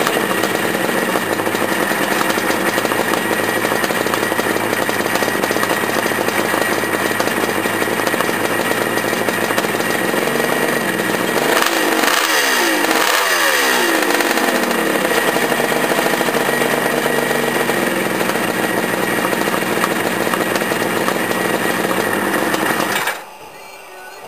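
Kawasaki H2 750 air-cooled two-stroke triple idling on its first test start. It is revved up and down a few times about halfway through, then switched off and cuts out about a second before the end.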